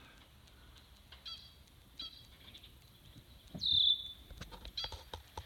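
Birds calling: two short chirps, then a louder call about three and a half seconds in that drops in pitch onto a brief held note. A few faint clicks follow near the end.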